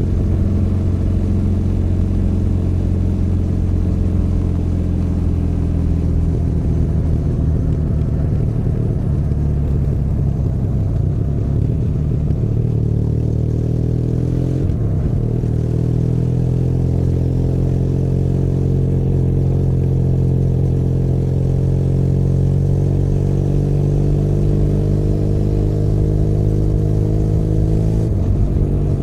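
Benelli Leoncino 500 Trail's parallel-twin engine pulling on the road. The engine note eases off slowly, breaks briefly about halfway through for a gear change, then climbs steadily in pitch, with another change near the end.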